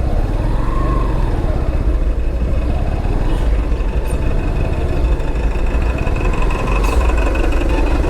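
Motorcycle engine running steadily, heard close up from the bike. A thin steady high tone joins it about three seconds in.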